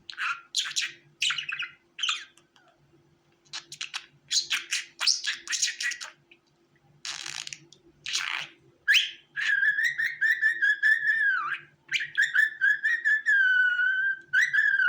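Budgerigars chirping and chattering in short bursts. From about nine seconds in they give long warbling whistled notes.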